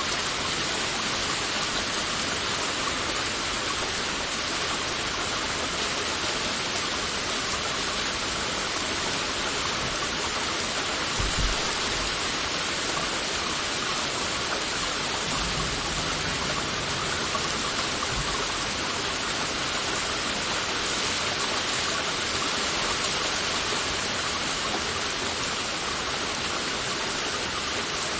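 Heavy rain falling steadily, an even hiss of many drops. A brief low thump comes about eleven seconds in, and fainter low thuds follow a few seconds later.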